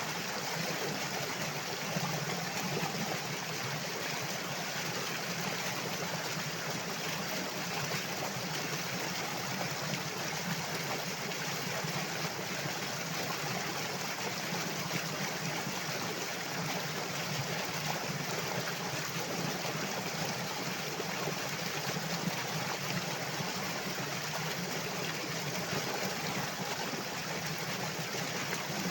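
Flowing water: a stream running steadily over stones, a continuous even rush with a light trickle in it.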